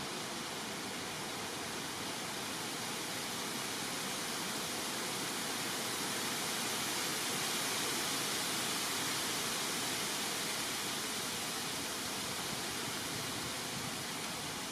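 Steady rushing hiss, even and unbroken, swelling slightly midway.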